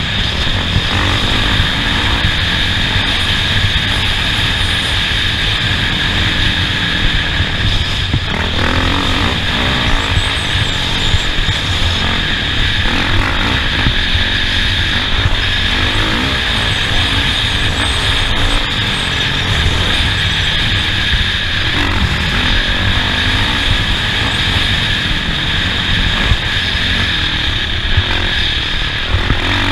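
Off-road race vehicle driven at speed over a dirt course: engine and road noise, loud and steady.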